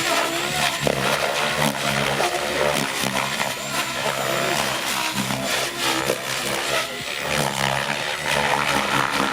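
Radio-controlled helicopter flying 3D aerobatics. The rotor and motor sound rises and falls in pitch as it manoeuvres.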